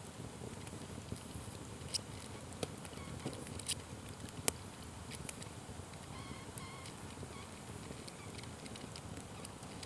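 Wood fire burning with a steady low rumble, broken by scattered crackles and sharp pops, the sharpest about four and a half seconds in.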